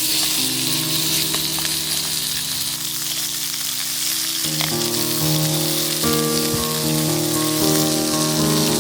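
Food sizzling steadily in a pan, an even hiss with faint crackles. Background music with held notes plays underneath, changing chords about halfway through.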